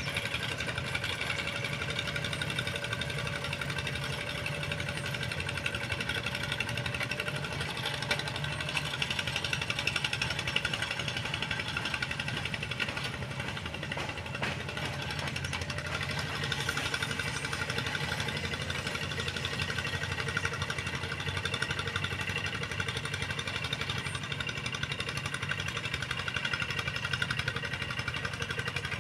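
Tractor engine running steadily with a fast, even knocking pulse.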